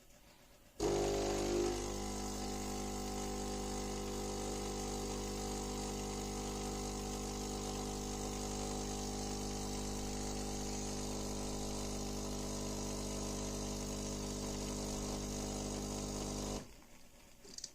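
Philips 5400 series bean-to-cup espresso machine running. A steady mechanical hum and whir starts abruptly about a second in, holds for some fifteen seconds and stops suddenly. A small click follows near the end.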